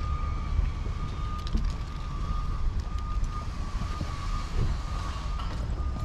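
Outdoor street noise: a heavy low rumble of wind on the microphone and passing traffic, with a thin steady high whine held through most of it.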